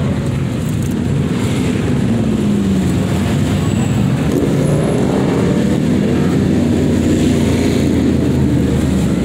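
A car engine running, with a rise in pitch about four seconds in. Voices are heard in the background.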